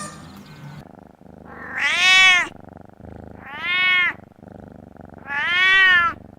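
Domestic cat meowing three times, each call about a second long and rising then falling in pitch.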